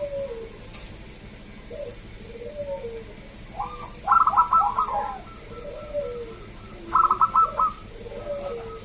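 Zebra dove (perkutut) cooing: soft, low, curved coos repeating, broken twice by a loud run of quick, higher staccato notes, about four seconds in and again about seven seconds in.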